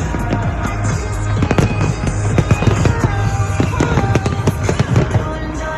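Fireworks going off in quick, irregular succession, with many sharp bangs and crackles, over loud music from the display's soundtrack.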